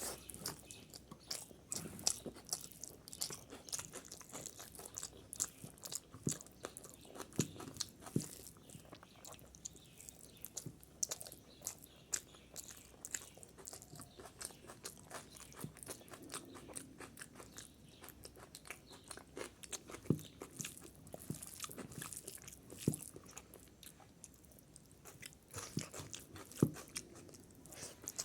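A person biting and chewing crunchy food close to the microphone: an irregular, continuous run of crisp crunches.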